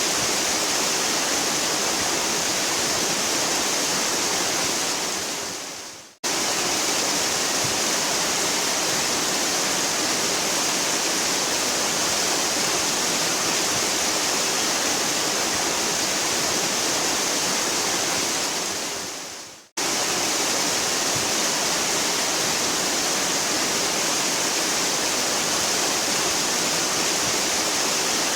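Waterfall rushing, a dense steady hiss of falling water. It fades away twice, about six seconds in and again near twenty seconds, and each time cuts straight back in at full strength.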